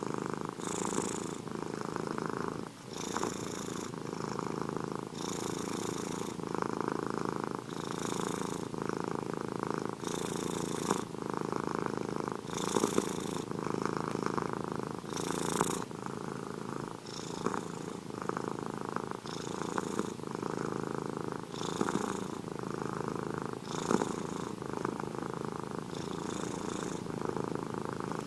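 Domestic cat purring continuously. The purr swells and eases in a regular rhythm, about once every two seconds, as the cat breathes in and out.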